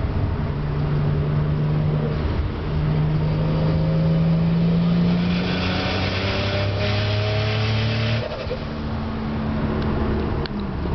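Turbocharged Toyota 2JZ-GE straight-six (an NA-T conversion with a Precision 6776 turbo) being revved: the engine note climbs over several seconds with a rushing hiss near the top, then the throttle is released about eight seconds in and the revs fall. On deceleration like this the owner hears an odd stutter, a 'cha cha cha' sound, from the turbo area.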